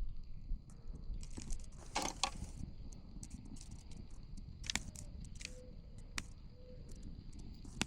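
Campfire crackling, with scattered sharp pops over a low, uneven rumble and a cluster of pops about two seconds in.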